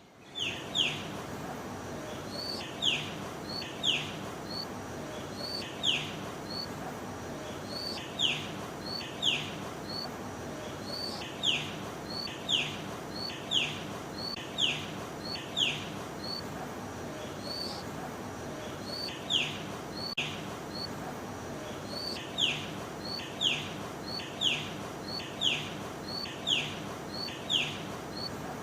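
A bird calling over and over, each call a quick, sharply falling whistled note led by a short higher note, repeated roughly once a second with occasional pauses, over steady background noise.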